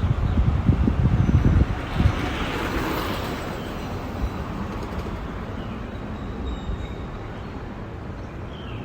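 Outdoor ambience on a bicycle ride. Wind buffets the microphone for about the first two seconds. A rushing noise swells and fades around the third second, over a steady background with a few faint bird chirps.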